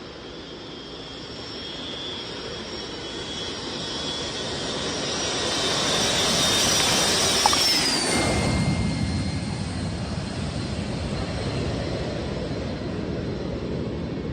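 Jet aircraft taking off, its engines growing steadily louder as it approaches. About eight seconds in, a high whine drops in pitch as it passes, leaving a lower rumble as it moves away.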